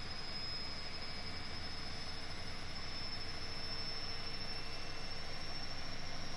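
Siemens iQ300 washing machine running its spin cycle, the drum slowly gaining speed under a steady rumble, with a thin high whine that climbs slightly in pitch. The owner takes this for a strange noise and fears the machine is already defective.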